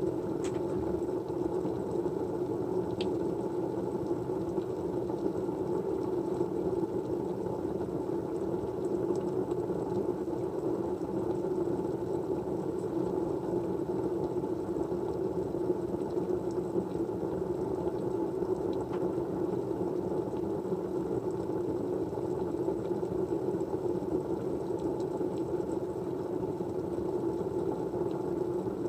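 Steady low, muffled background noise with no change in level, such as a white-noise track, with a few faint ticks.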